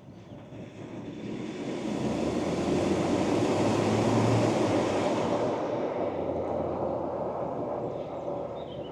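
A vehicle passing: tyre and engine noise swells to a peak about four seconds in, then fades away.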